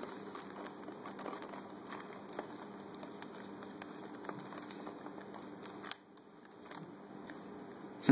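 A parrot's beak working at the wrapper of a chocolate Easter bunny, giving faint crinkling with scattered small clicks.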